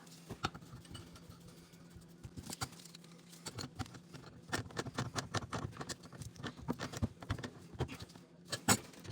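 Quick irregular small clicks and taps of hand work, denser from about three and a half seconds in, over a faint steady low hum.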